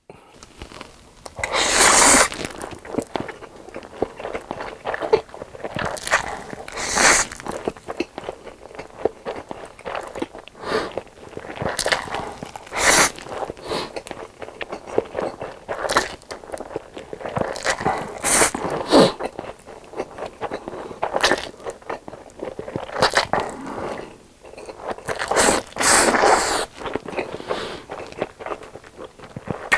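Close-miked eating: loud crunchy bites every few seconds at uneven intervals, with chewing in between.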